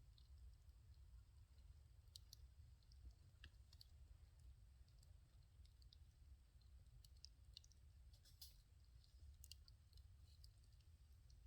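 Wood fire crackling faintly, with sparse, irregular small snaps and pops over a low, steady rumble.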